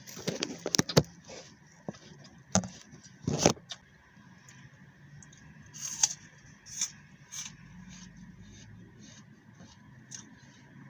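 Crisp green apple being bitten and chewed close to the microphone: a burst of sharp crunches in the first second, two more crunches a few seconds in, then softer chewing clicks.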